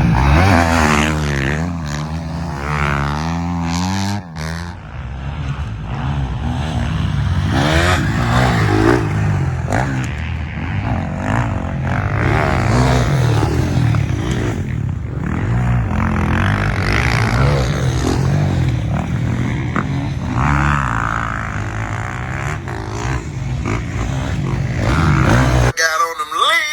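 Motocross bike engines revving up and down repeatedly as the bikes race around the dirt track. Near the end the engine sound cuts off abruptly and a different sound takes over.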